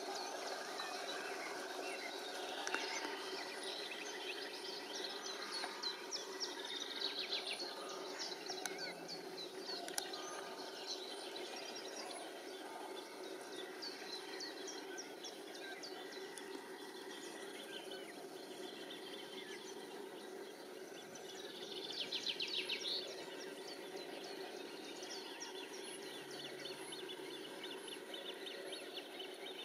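Birds chirping and calling over a faint steady outdoor background, with a louder fast trill about three quarters of the way through.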